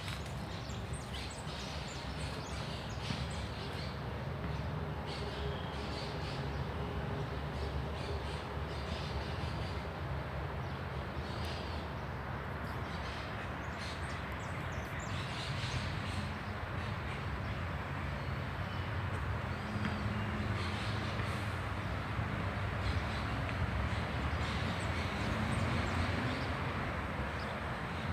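Birds chirping, with many short high calls, over a steady low rumble of city traffic.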